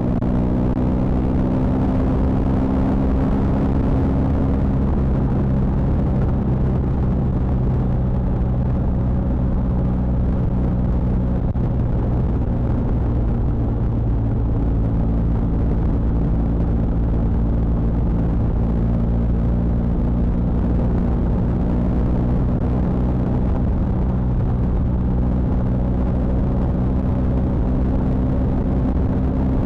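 BMW R 1250 GS Adventure's 1254 cc boxer-twin engine running at a steady, even speed, a low rumble that barely changes in pitch.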